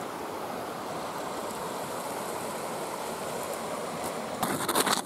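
Steady rush of flowing water from a mountain stream. Near the end, loud irregular crunching and crackling cuts in over it.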